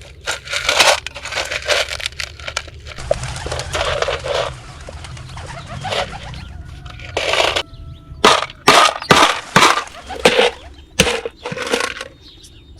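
A cheke bird-scaring rattle, an empty can with stones inside, being shaken so the stones clatter against the metal. It gives a dense rattle at first, then a run of sharp separate shakes, about two or three a second, in the second half.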